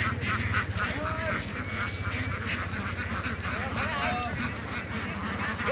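A large flock of domestic ducks quacking and chattering, many short calls overlapping, over the low rhythmic hum of an idling engine.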